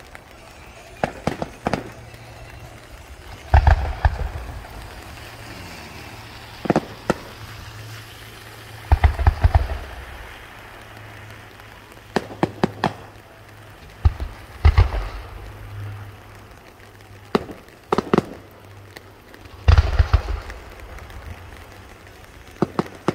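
Aerial fireworks shells bursting overhead: groups of sharp bangs, with a heavier group carrying a deep low thud about every five to six seconds and single cracks in between.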